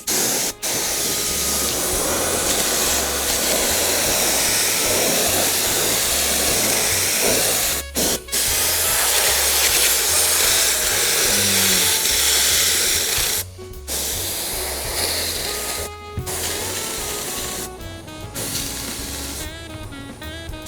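Compressed-air spray glue gun hissing steadily as contact adhesive is sprayed onto seat foam. The spray is held in long runs, with short breaks about 8 s in, about 13 s in and a few times near the end.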